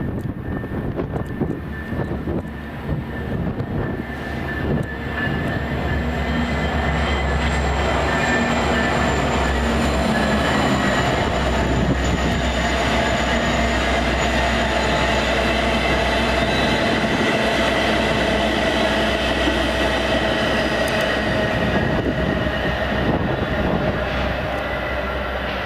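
Metra commuter train passing close by, a diesel locomotive with its coaches. The noise builds over the first several seconds, then holds loud and steady, with a high steady ring over the rumble of the wheels.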